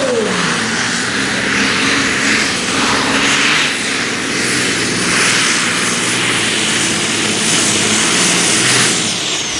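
Russian V12 diesel of a tractor-pulling machine running loud and hard, with a high steady whine over the engine note that glides down near the end as it comes off power.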